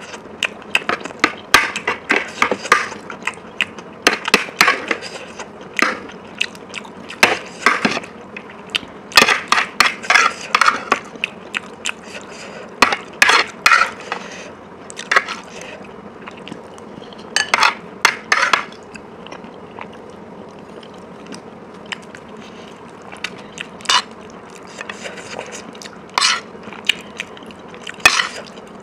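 Close-miked eating sounds: chewing and mouth sounds in irregular clusters of clicks and crackles, with sparser single clicks near the end.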